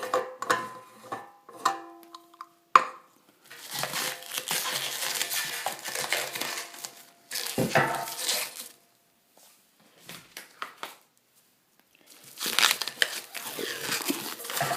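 Rubbery Plasti Dip coating being peeled off a motorcycle fuel tank: crinkling and tearing in several stretches with short pauses, and a sharp snap about three seconds in.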